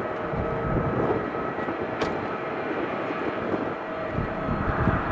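Jet airliner engines: a steady rumble of engine noise with a faint whine in it.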